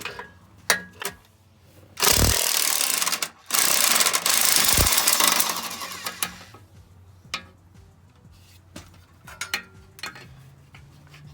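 Kobalt impact wrench hammering on an exhaust flange nut in two bursts, about a second and a half and two seconds long with a brief break between, followed by light metallic clinks of the socket and tools.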